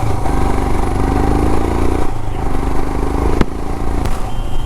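Royal Enfield Himalayan's single-cylinder engine pulling under throttle, its pitch rising for about two seconds and then falling back as the throttle closes, with one sharp click about three and a half seconds in.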